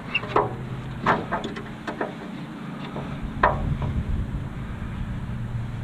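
A few sharp metal clinks and knocks as hand tools work on parts of a cast aluminum grill, the loudest about three and a half seconds in, over a steady low rumble.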